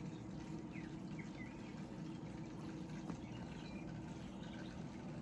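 A few faint, short chirps from a pet galah about a second in, over a steady low hum.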